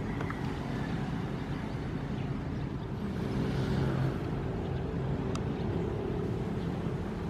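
Ocean surf with a steady low rumble, and a wave swelling and washing in about halfway through.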